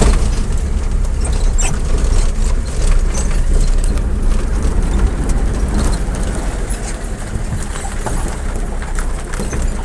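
Moving vehicle heard on board: a steady low rumble with scattered rattles and clicks.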